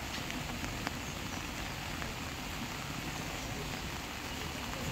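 Steady hiss of heavy rain, with faint indistinct voices underneath.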